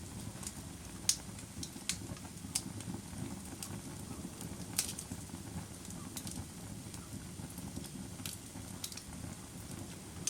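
Fire crackling, with sharp pops at irregular intervals, about once a second or less, over a low steady rumble.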